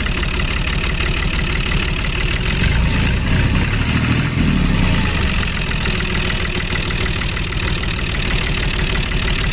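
Tractor engine running steadily with a dense low chugging, cutting off abruptly at the end.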